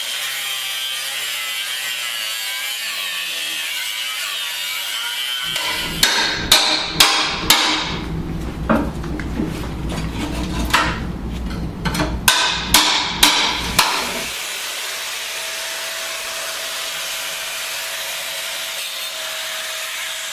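Hammer blows on steel, about ten sharp strikes in an uneven rhythm in the middle of the stretch, driving seized pins out of a tractor loader arm. A steady hiss runs before and after the strikes.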